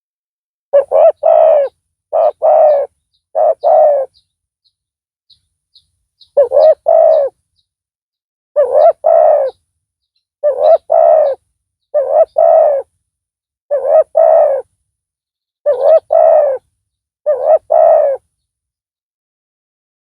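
Spotted dove (tekukur) cooing: a series of short two- to three-note coos repeated every second or two, with a pause of about two seconds early on filled by faint high chirps.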